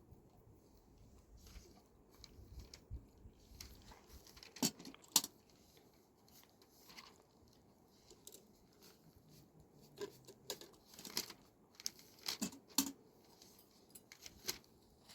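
Scattered light clicks, taps and rustles of small objects being handled, with a few sharper knocks about five seconds in and again around twelve seconds in.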